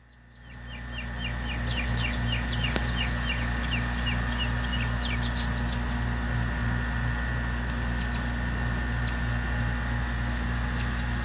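Bird chirping in a quick series of short high calls, then more sparsely, over a steady low hum; the sound fades in over the first two seconds.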